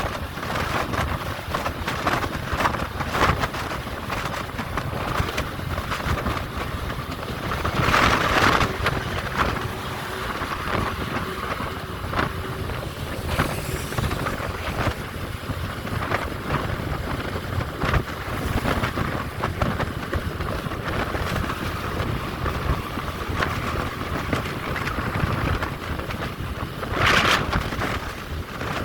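Truck on the road in strong wind: steady road and running noise with wind buffeting and small rattles, swelling louder twice, about eight seconds in and near the end.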